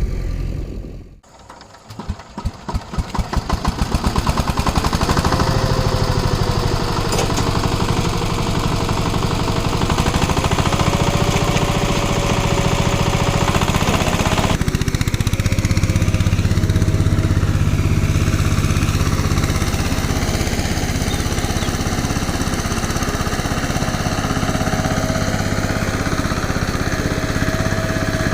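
An engine running with a steady chug. About a second in, the sound drops away briefly, then returns as pulses that quicken over a couple of seconds and settle into a steady run. Around halfway through the sound changes abruptly.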